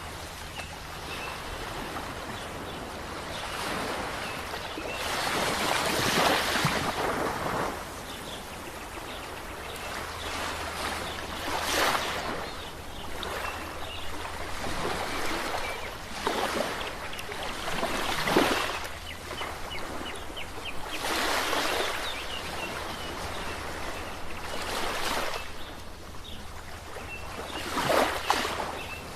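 Ocean waves washing onto a shore: a steady rush of surf that swells into a louder breaking wave about every five or six seconds.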